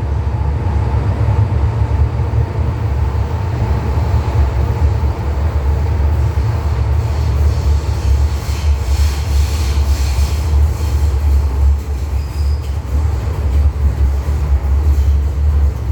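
An MTR M-Train electric multiple unit running between stations, with a steady low rumble from its wheels and motors. Around the middle the rail noise turns sharper and clicky, and a brief high wheel squeal comes about twelve seconds in.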